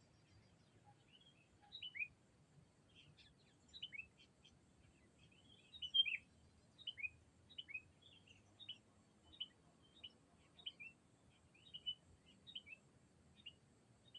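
Sooty-headed bulbul (kutilang) calling: a long string of short, bright notes, each sliding downward, about two a second. It is a decoy bird calling to rival bulbuls.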